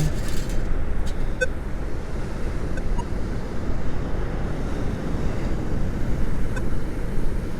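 Steady rushing noise of wind on the microphone and surf, with a few faint ticks.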